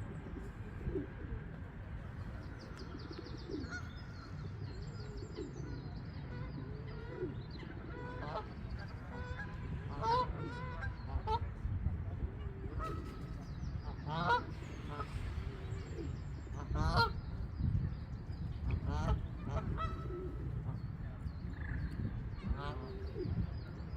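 Birds calling: a series of short, harsh repeated calls starting about eight seconds in, over faint high chirps from small birds and a steady low rumble.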